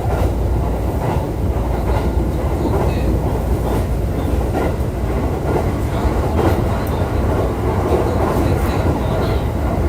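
Running noise heard from aboard a JR East E531 series electric commuter train moving along the line: a steady loud rumble from the wheels and rails, with occasional faint clicks.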